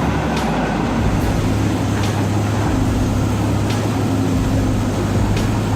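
A heavy vehicle's engine running steadily with a deep, even hum, with a few faint clicks over it.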